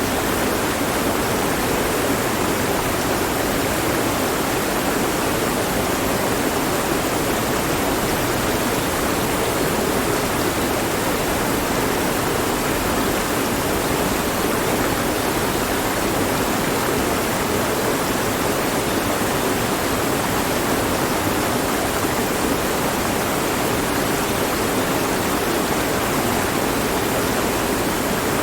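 Mountain stream flowing over rocks: a steady rushing of water with no change.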